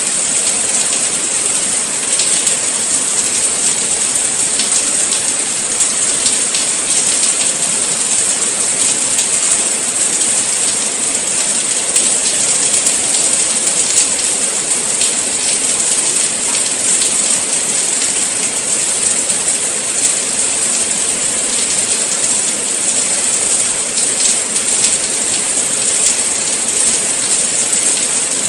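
Steady rain falling, a dense even hiss with many fine drops ticking on surfaces throughout.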